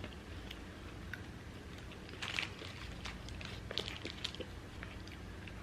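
Quiet eating sounds from a burger-and-fries meal: soft chewing with scattered small clicks and two brief crunchy crackles, about two and a half and four seconds in.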